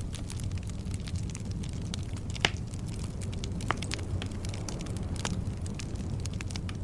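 Wood fire burning with a steady low rumble and frequent sharp crackles and pops, the loudest pop about two and a half seconds in.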